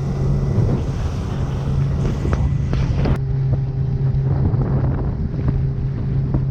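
Motorboat engine running steadily with a low drone, wind buffeting the microphone.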